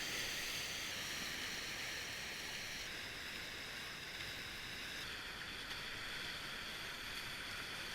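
River water rushing steadily, an even hiss with no separate splashes.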